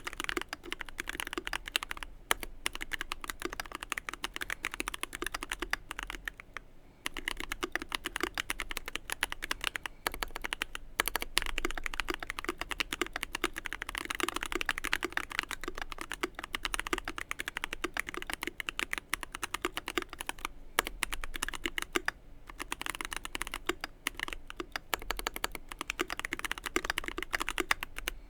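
Fast continuous typing on a Keychron Q1 mechanical keyboard with a brass plate, lubed and filmed Everglide Oreo tactile switches and GMK keycaps, a dense run of keystrokes broken by a few short pauses, the longest about six to seven seconds in.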